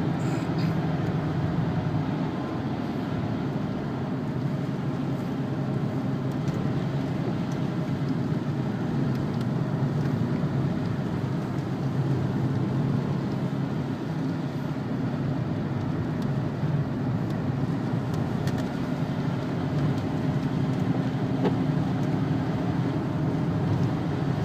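Inside the cabin of a Renault Laguna wagon: its 2-litre turbo diesel runs at a steady drone under tyre and road noise on a wet track.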